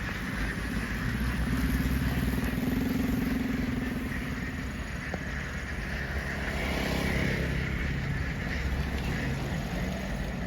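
A motor vehicle's engine running steadily, swelling briefly about two seconds in before settling back.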